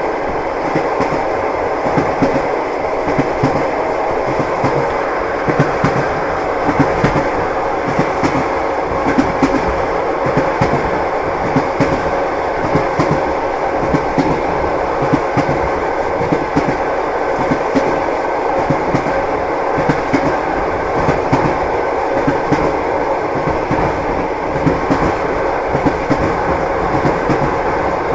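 Train wheels clattering over rail joints, heard inside a passenger carriage compartment: a steady rumble with a continual run of irregular clicks and knocks.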